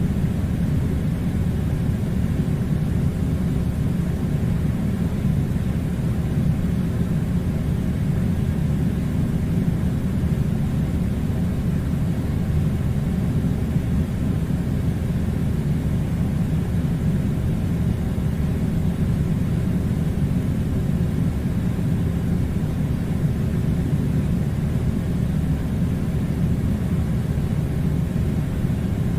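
Air conditioner running with a steady, unchanging low rumble.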